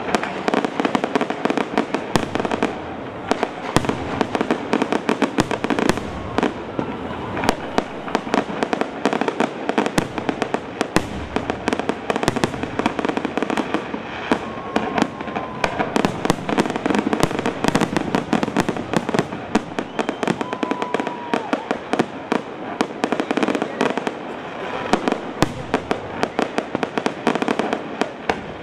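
Fireworks display: a dense, unbroken barrage of aerial shells bursting, with bangs and crackling following one another many times a second.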